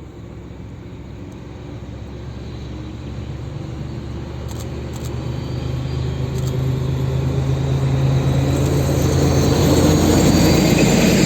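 Diesel locomotive engine drone from a diesel-hauled train drawing closer, a steady low hum growing evenly louder, with rising rail and wheel noise toward the end.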